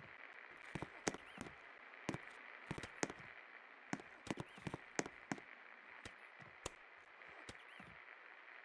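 56-inch antique Pak ceiling fan running, giving irregular clicks and knocks over a steady hiss.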